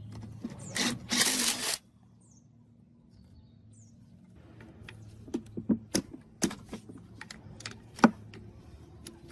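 A short hiss lasting about a second, then a run of irregular clicks and knocks from tools and metal parts being handled, the sharpest knock near the end.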